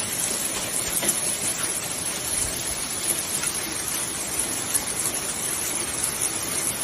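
Hail and rain coming down hard: a steady hiss with a few faint scattered hits.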